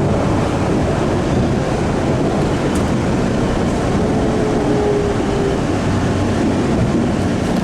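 Interior running noise of an MBTA Orange Line CRRC 1400-series subway car under way: a steady rumble of wheels on rail and car body. A faint steady tone is heard for about a second and a half near the middle.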